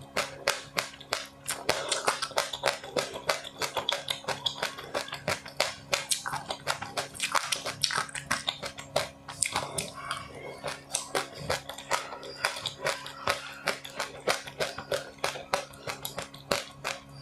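Close-up chewing of a crisp seed and puffed-rice snack: a quick, uneven run of sharp crunches, several a second, over a steady low hum.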